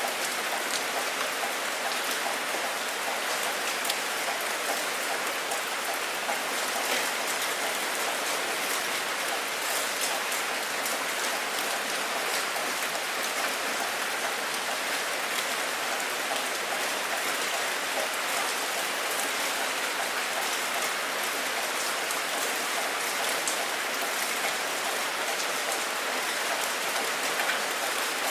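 Steady rain falling: an even hiss with a dense scatter of individual drop ticks.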